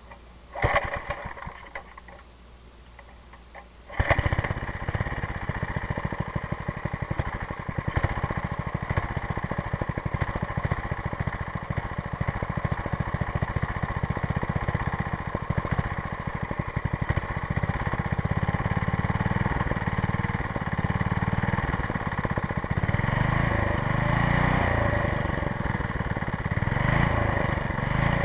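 Rebuilt 5 hp Briggs & Stratton single-cylinder engine, running on a Tecumseh two-stroke snowblower carburetor, being started: a brief sputter about half a second in, then it catches about four seconds in and runs steadily with a fast, even firing beat. Its speed wavers somewhat near the end, the idle not yet set.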